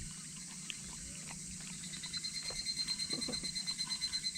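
Insects trilling at dusk: a steady high hiss, joined about halfway by a thin, high, rapidly pulsing trill, with a few faint clicks.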